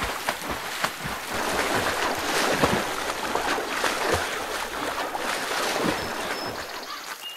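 Heavy splashing of river water from a person swimming hard and scrambling out at the bank, a dense churn with many irregular splash hits; it dies down near the end.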